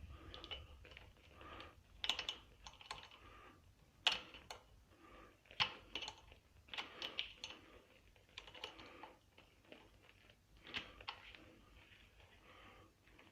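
Irregular light clicks and taps of small metal parts and a hand tool being handled while a throttle cable is worked into the motor's throttle fitting.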